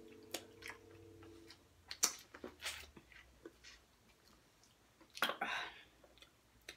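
Close-up eating sounds: chewing, lip smacks and small wet clicks from people eating barbecued ribs and corn on the cob. A steady low hum runs through the first second and a half, and a short breathy rush comes about five seconds in.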